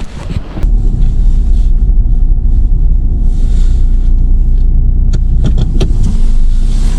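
Car driving: a loud, steady low rumble of road and engine noise with a faint steady hum, setting in about half a second in, and a few light clicks around five to six seconds in.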